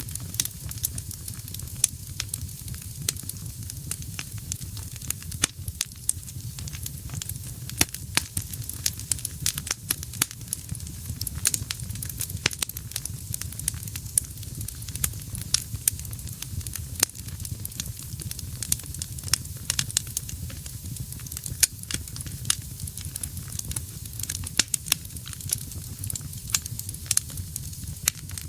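Wood fire burning in a fireplace: a steady low rumble of flames with frequent sharp crackles and pops from the burning logs throughout.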